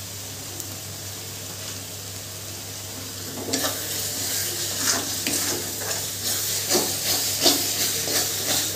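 Onion-tomato masala with chicken masala powder sizzling in a kadai. About three and a half seconds in, a metal spoon starts stirring and scraping the pan in repeated strokes, and the sizzle grows louder.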